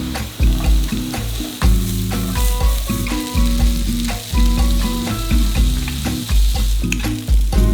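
Food sizzling as it fries in oil in a pan, with some stirring, under background music with a steady pulsing bass.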